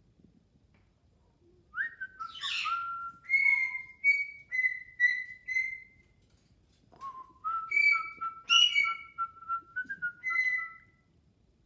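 Jardine's parrot whistling: a run of short clear whistled notes, then after a pause of about a second a second run of whistles at two pitches, one lower and one higher.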